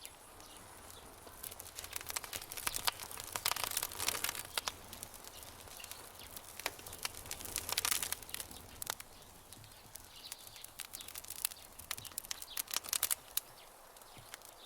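Campfire crackling: sharp pops and snaps that come in clusters, densest from about two to four seconds in, again near eight seconds and around thirteen seconds, over a soft steady background.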